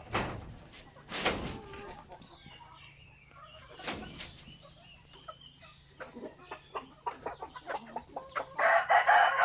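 Chickens clucking, with three sharp knocks in the first few seconds. Near the end a rooster starts a loud crow that falls in pitch.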